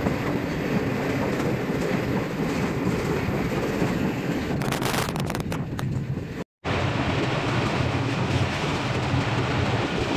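Passenger train running along the track, heard from an open carriage door: a steady rumble of wheels on rails with wind on the microphone. A run of sharp clicks comes about five seconds in, and the sound cuts out for a moment about six and a half seconds in.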